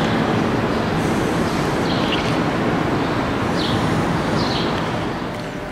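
Steady running noise of a train in a covered railway station, with a few short high squeaks over it; it eases slightly about five seconds in.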